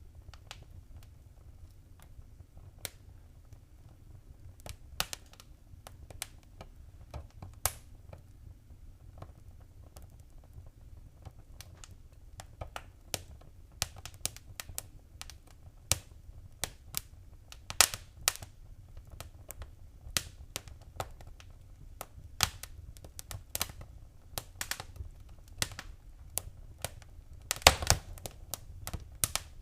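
Wood fire in a fireplace crackling: irregular sharp pops and snaps over a low steady rumble, with a quick flurry of pops near the end.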